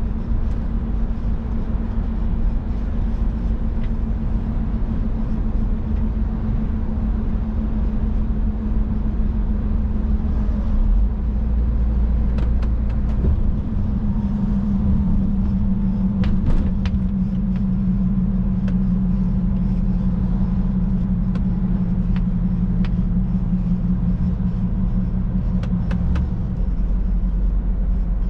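Scania truck's engine running steadily at cruising speed, with a low rumble of road and tyre noise, heard from inside the cab. A few faint clicks come in about halfway through.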